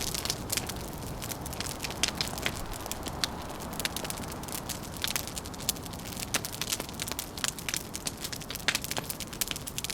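Wood fire crackling, with frequent irregular sharp pops and snaps over a steady low rushing background.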